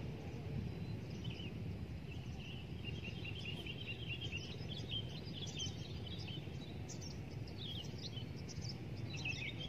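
Small birds chirping, quick runs of short high notes starting about a second in, over a steady low rumble.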